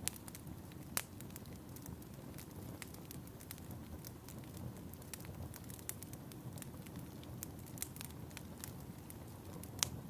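Fireplace fire crackling: a steady low rush of flames with frequent small pops, and a few sharper snaps about a second in and near the end.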